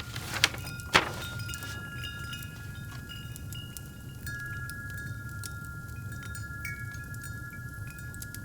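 Wind chimes ringing, with long held tones that overlap, over a crackling fireplace with a low steady rumble. Two sharp loud pops come from the fire about half a second and a second in.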